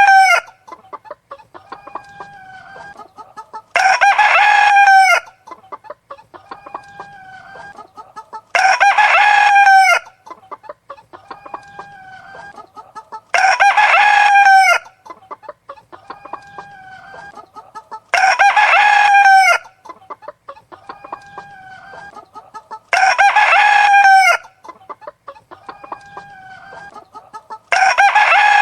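Rooster crowing over and over, one crow about every five seconds, each crow the same length and shape, with quieter hen clucking in between.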